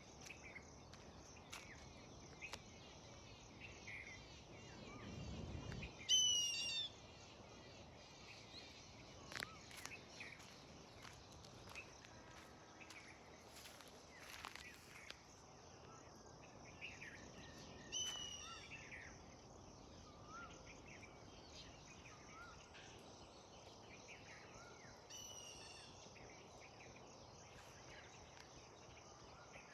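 Birds calling outdoors: scattered high chirps with three louder runs of quick, falling, high-pitched notes, about six seconds in, around eighteen seconds and near twenty-five seconds. A short low rumble comes just before the first loud run.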